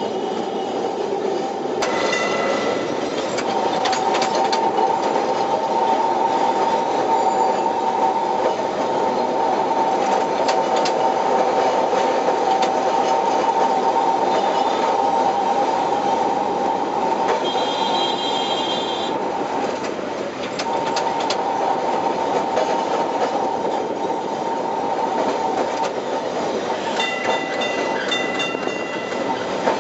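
Tram running along street track, with steady rolling noise and a sustained whine through most of the ride that eases briefly a bit past two-thirds of the way through. Short high horn-like tones sound a little past halfway and again near the end.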